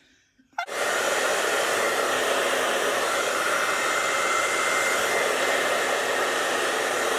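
Hair dryer running steadily, switched on abruptly about half a second in.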